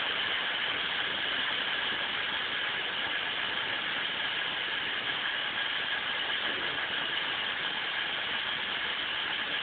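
Steady drone of trains standing at a station platform, with a high, even whine on top; the level does not change.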